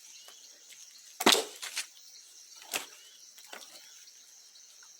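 Firewood being handled while a bonfire is stacked: a few sharp wooden knocks, the loudest about a second in and smaller ones near two, three and three and a half seconds.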